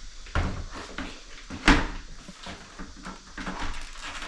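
A few knocks and clunks of parts being handled and pushed into place, the loudest about a second and a half in.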